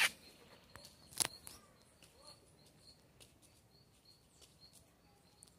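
Quiet outdoor ambience with a small bird chirping faintly over and over, and two sharp clicks, one at the start and one about a second in.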